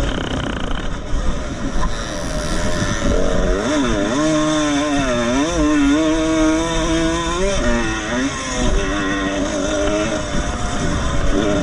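1975 MX125 two-stroke motocross motorcycle engine under hard riding, its pitch repeatedly rising and dropping as the throttle is opened and closed.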